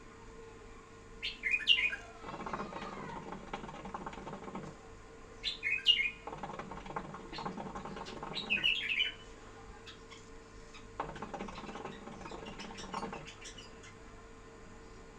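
A pet bulbul singing in short, bright, chirpy phrases, four of them spaced a few seconds apart, with quieter sound between the phrases.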